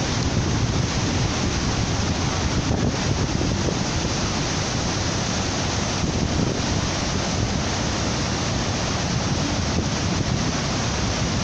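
Waterfall rushing: a loud, steady noise of falling water with no let-up.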